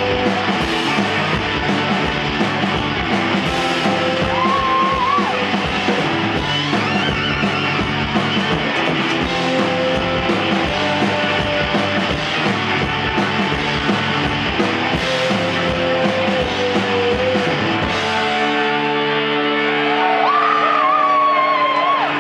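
Live rock band playing an instrumental stretch with electric guitars, bass and drums. About eighteen seconds in the drums stop and the band lets a chord ring out.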